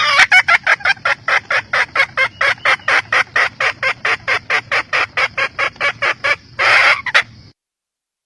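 Red junglefowl hen clucking in a rapid, even series of about four or five short calls a second, with one longer, drawn-out call near the end before the sound cuts off abruptly.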